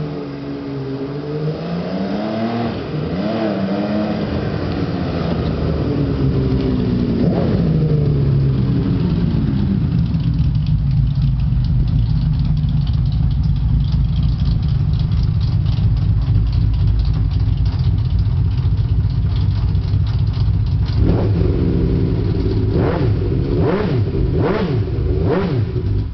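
V12 motorcycle engine revved up and down several times, then running steadily with a fast rattle, blipped sharply four times near the end, then switched off. The rattle is a clutch rattle, normal for a 1979 Honda clutch, and a clicking in it that one listener takes for an exhaust leak.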